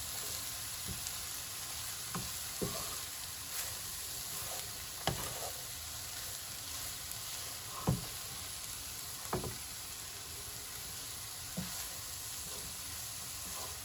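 Cooked rice and stir-fried vegetables sizzling in a hot oiled pan as they are mixed, with a few sharp knocks of the stirring utensil against the pan.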